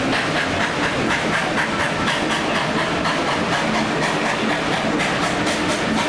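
Narrow-gauge steam train running along the track, a steady rumble and clatter with a regular beat.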